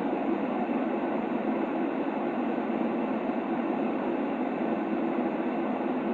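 Steady, unchanging shaped noise for soothing a baby, concentrated in the lower-middle range with the highs cut off, so it sounds like a dull hush or rumble rather than hissing white noise.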